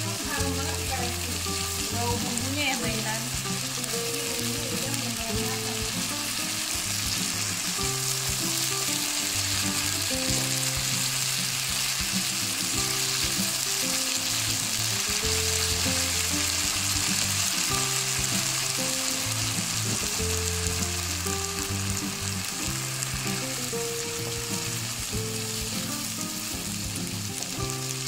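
Ground chili spice paste sizzling steadily in hot oil in a frying pan, stirred and scraped round with a silicone spatula. Background music with held notes plays underneath.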